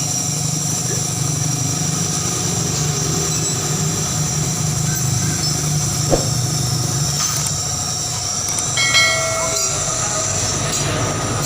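Steady mechanical drone with a low hum and a high whine, with one sharp knock about six seconds in.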